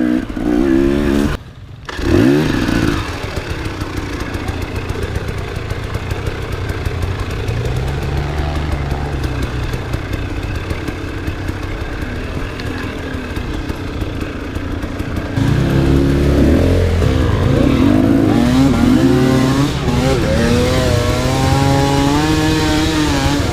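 Enduro motorcycle engine revving up and down under load, its pitch rising and falling with the throttle. It drops away briefly about a second and a half in, and from about fifteen seconds on it runs louder with quicker rises and falls in pitch.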